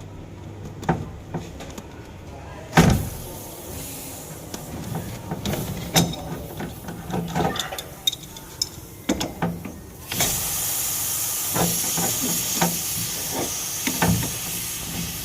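Clicks and knocks of parts being handled, with one louder knock early, then about ten seconds in a steady spray hiss starts, a cleaning jet being sprayed on the air conditioner.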